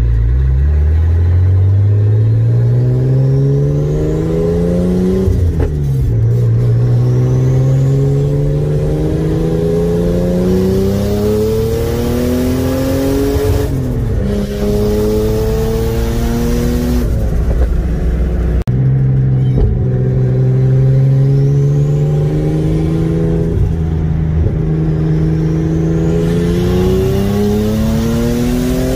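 Turbocharged Datsun L28 straight-six of a 1977 280Z accelerating hard through the gears, heard from inside the cabin. The engine note climbs, falls back at gear changes about five and a half seconds in, around fourteen seconds and again around eighteen seconds, holds steady, then climbs once more near the end, with a faint rising whistle over it as it pulls.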